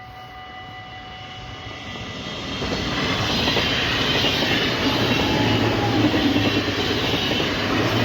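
An NS ICM electric intercity train passing a level crossing: its running noise rises over the first few seconds and then stays loud, with a low hum underneath. Near the start the crossing's warning bell rings steadily, then it is drowned out by the train.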